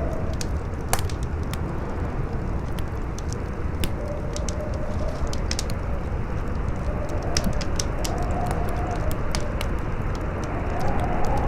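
Campfire crackling with irregular sharp pops, over strong wind howling in a tone that slowly rises and falls.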